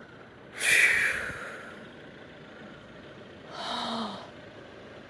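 A person breathing out hard close to the microphone: a loud exhale about half a second in that fades over a second, then a shorter sigh with a bit of voice in it near four seconds.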